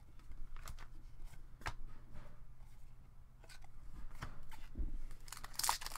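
Trading cards being handled and flipped through, with light scattered clicks and slides, then a foil card-pack wrapper crinkling near the end, louder than the card handling.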